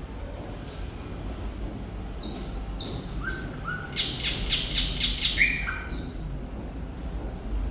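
Thrush nightingale singing: short, clear whistled notes at several pitches. A loud, rapid rattle of clicking notes, about five a second, comes in the middle of the song.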